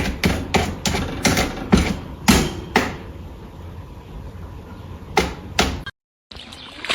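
A series of sharp knocks or taps, irregularly spaced: about seven in the first three seconds, then two more a little after five seconds, over a low steady hum. The sound cuts off abruptly near the end.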